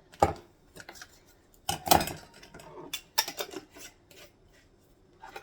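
Kitchen utensils and dishes clinking and scraping as a dry seasoning blend is spooned or poured into a jar. There are a few sharp knocks, the loudest about two seconds in, with lighter rattling between.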